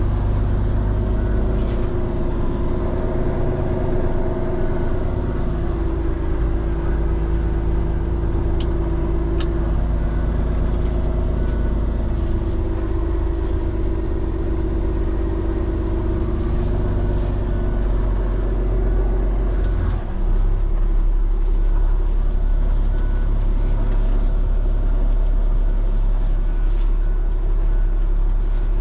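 Diesel engine of a Peterbilt 389X heavy rotator wrecker running steadily under way. Its note shifts in steps several times, and the sound changes and grows a little louder about two-thirds of the way through.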